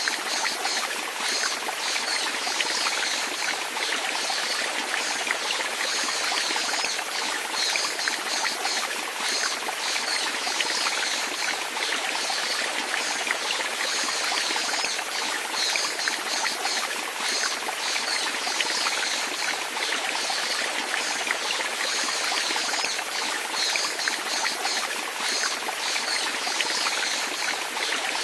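Flowing water trickling steadily, with a constant fine splashing hiss.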